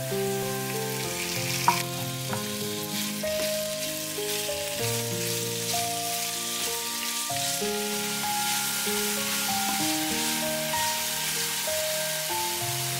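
Chicken breast pieces and chopped red onion sizzling in a frying pan as they are stirred with a wooden spatula, with a sharp knock about two seconds in. Background music plays throughout.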